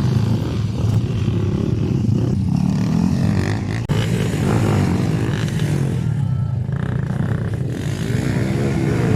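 Motocross dirt-bike engines running and revving, the pitch rising and falling with the throttle, with a momentary break about four seconds in.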